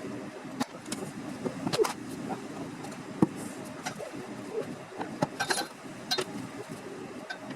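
Scattered metallic clinks and knocks from hands-on repair work on a car, some ringing briefly, over a steady low hum.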